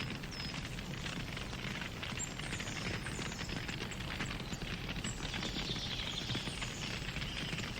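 Wood fire crackling, with dense small pops and snaps over a steady low rumble of the flames. Short, faint, high whistling notes come and go in the background.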